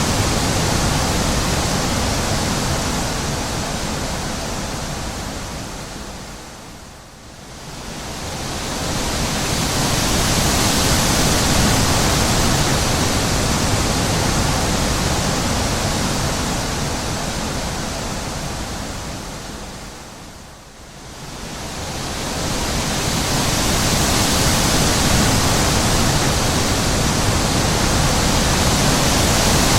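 Wind blowing: a steady, full rushing that dies down and swells back up twice, once about a quarter of the way in and again about two-thirds through.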